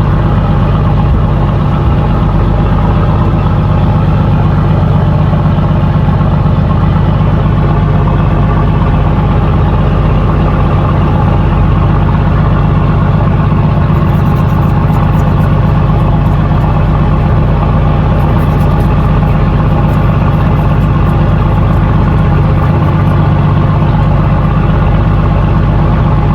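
Fishing boat's engine running steadily at idle, a loud, even low drone.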